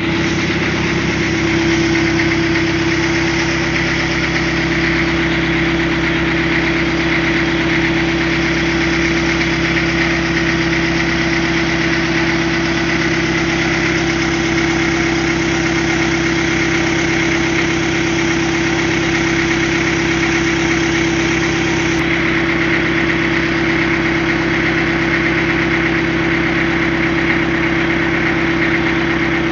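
Rice milling machine running steadily, a loud, even machine drone with a steady hum.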